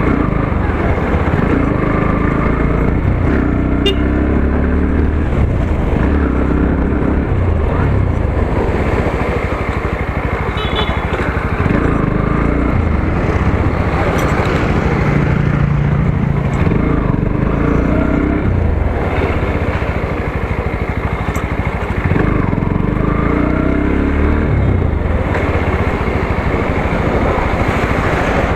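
Motorcycle engine running on the move, its note rising and falling several times, with road noise.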